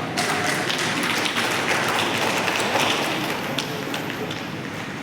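Audience clapping, a dense patter that swells soon after it starts and thins out near the end.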